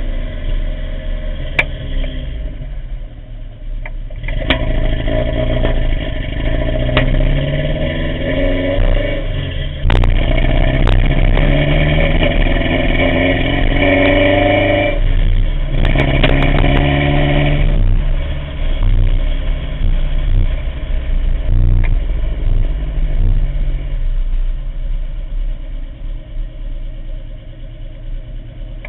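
Toyota 22RE four-cylinder engine running with a bad misfire, its speed rising and falling, with several sharp clicks in the first dozen seconds. The misfire comes from a cracked cylinder head burning coolant and fouling the spark plugs.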